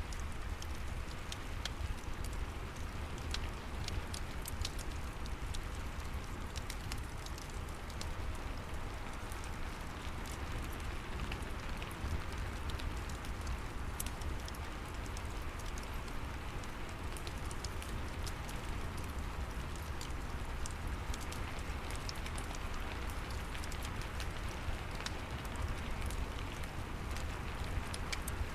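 Steady rain falling, with scattered sharp crackles and pops from a wood fire in a fireplace over a low rumble.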